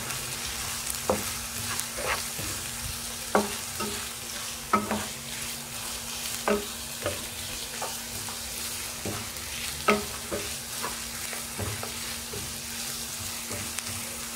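Chicken, onion and carrot sizzling in oil in a frying pan while a wooden spatula stirs them, its strokes knocking and scraping against the pan at irregular intervals, roughly once a second.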